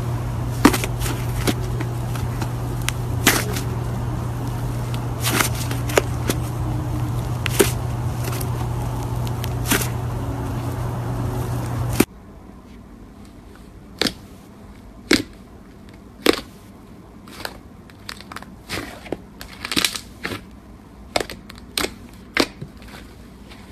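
Slime being squeezed and poked, giving irregular sharp clicks and crackling pops of trapped air. A steady low hum under the first half stops abruptly about twelve seconds in, after which the clicks are more frequent.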